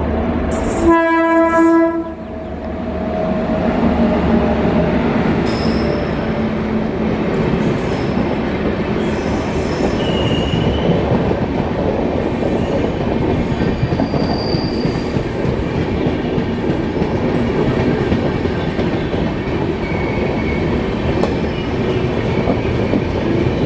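WAP-7 electric locomotive sounding its horn in one short blast about a second in, then the passenger coaches of the train running past: a steady loud noise of wheels on the rails, with a few brief high squeaks.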